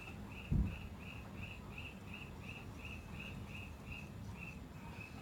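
A steady series of short, high chirps, about three a second, evenly spaced, with one low thump about half a second in.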